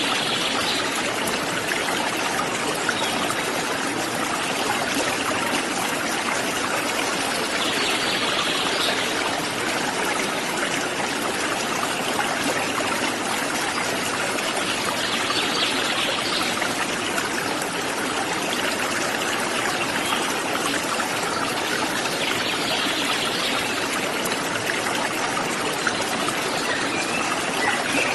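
A waterfall splashing steadily, an even rush of water, with a brighter hiss swelling briefly about every seven to eight seconds.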